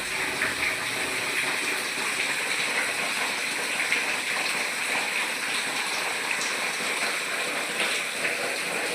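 Heavy rain pouring down steadily, with water splashing.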